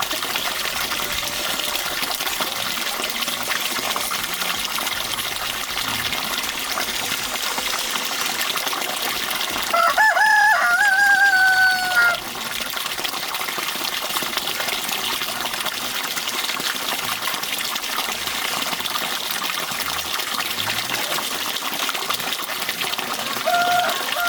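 A rooster crows: one call of about two seconds roughly ten seconds in, falling in pitch at the end, and another starting near the end. Behind it, a steady rush of running water.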